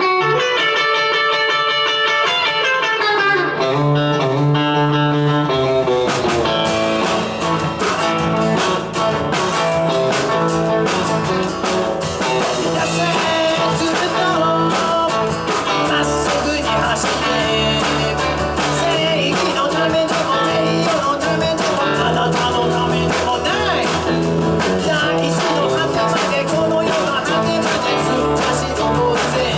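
Rock and roll band playing: a guitar plays alone at first, then drums and the full band come in about six seconds in and carry on at a steady driving pace.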